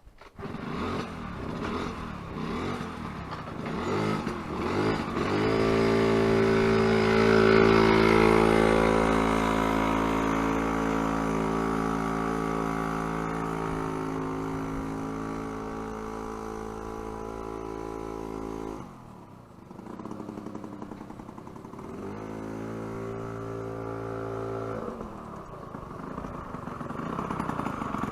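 Yamaha Passol scooter's small two-stroke single engine running through a newly fitted expansion chamber. It revs up about five seconds in and holds a steady pitch, drops back near the middle, then picks up and holds again before easing off toward the end.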